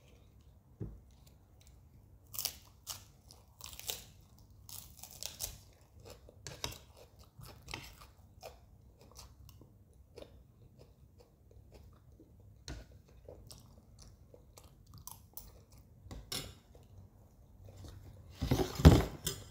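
Raw lettuce leaves being bitten and chewed with crisp crunches, along with chewing of macaroni, in short irregular bites throughout. A louder burst of noise about a second long comes near the end.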